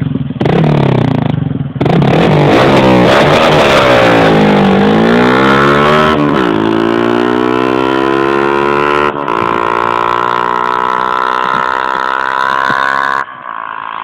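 Honda CBF125 single-cylinder four-stroke engine through a Red Scorpion aftermarket exhaust, revving and then pulling away. Its pitch drops and climbs again twice, as at gear changes, then holds higher before falling away sharply near the end.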